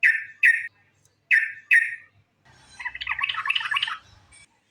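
Yellow-vented bulbul (trucukan) calling: two pairs of short, bright notes, then a rapid chattering phrase lasting about a second and a half from about halfway in.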